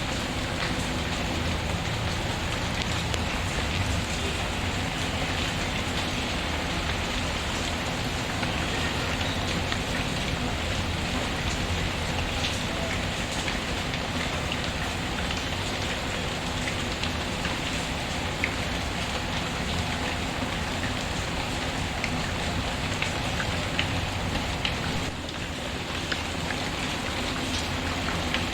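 Steady rain falling, with many small scattered ticks. The level drops briefly near the end.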